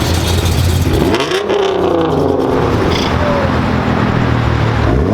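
Car engine running, then revved about a second in, its pitch rising quickly and falling back. It settles to a steady low drone and climbs again in a second rev near the end.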